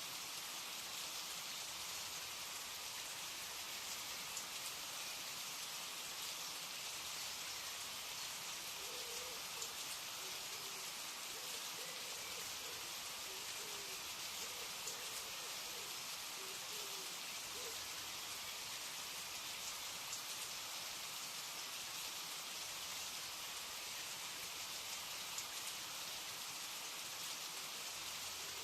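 Steady rainfall, an even patter of rain on a surface. A few faint short calls come through it between about 9 and 17 seconds in.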